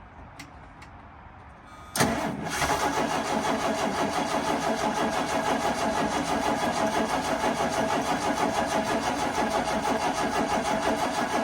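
Ford 300 cubic-inch inline-six being cranked on the starter at a cold start near freezing: after about two seconds the starter engages and turns the engine over in an even, pulsing rhythm for about ten seconds, then stops abruptly. The engine does not catch, and it is taken to need starting help.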